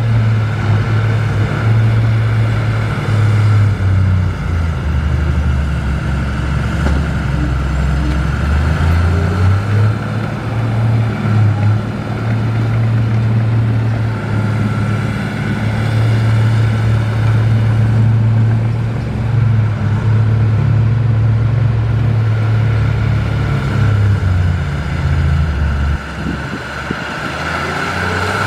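Komatsu D53P bulldozer's diesel engine running under changing load, its low drone shifting in pitch every few seconds, with a steady higher whine above it.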